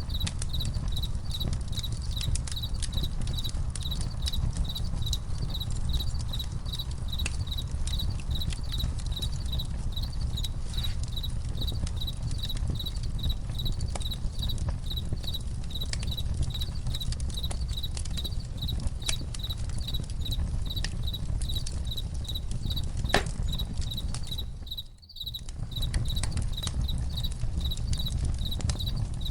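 Campfire crackling, with scattered sharp pops over a low rumble, while crickets keep up steady high-pitched chirping. Near the end the whole sound drops out for a moment and comes back.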